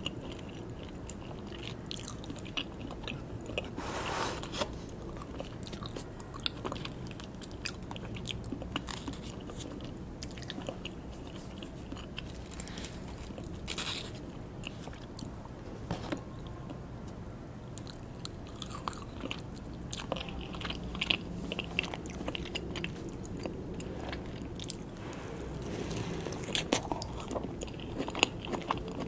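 Close-miked eating sounds: soft buttercream cake being bitten and chewed, with many small wet mouth clicks scattered throughout and a louder stretch of noise about four seconds in.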